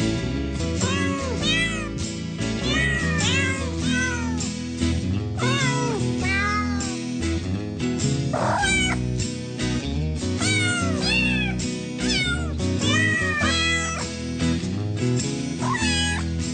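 Cat meows, many in quick succession, a couple a second, over background music.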